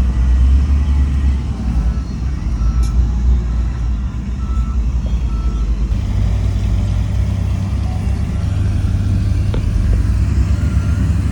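Heavy diesel earthmoving machinery, a bulldozer or dump truck, running loud and steady, its low engine note stepping up about halfway through. A few faint short reversing-alarm beeps sound a few seconds in.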